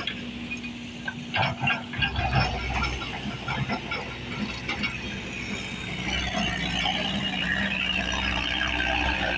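Excavator at work: its engine runs steadily while metal parts knock and squeal, the squealing strongest in the second half.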